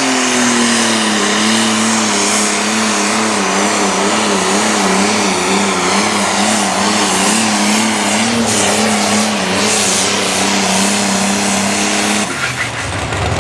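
Limited pro stock pulling tractor's turbocharged diesel engine running hard under load down the pulling track. Its pitch wavers up and down a few times a second, and the engine sound drops away about twelve seconds in as the pass ends.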